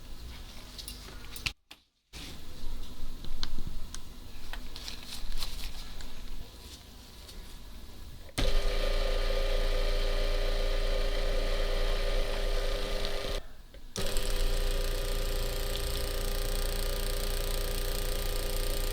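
Small clicks and handling of small parts, then a steady electric machine hum that starts suddenly about eight seconds in, stops for about half a second, then runs on.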